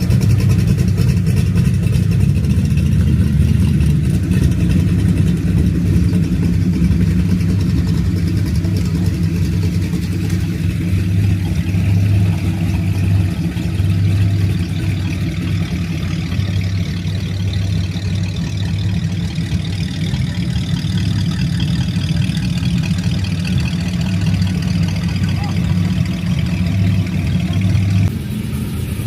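A car engine running steadily at idle, low-pitched and pulsing, with a sudden change in the sound about a second before the end.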